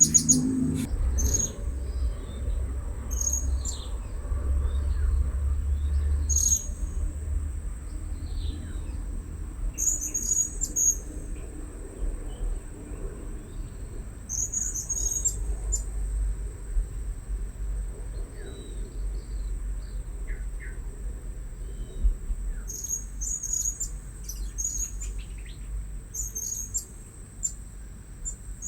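Blue-crowned hanging parrots giving short, high-pitched chirping calls in quick clusters every few seconds. A steady high whine and a low rumble run underneath.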